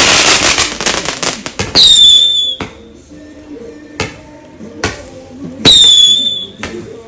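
Fireworks going off: a dense crackling burst at the start, sharp bangs, and twice a high whistle that drops slightly in pitch and then holds, about four seconds apart.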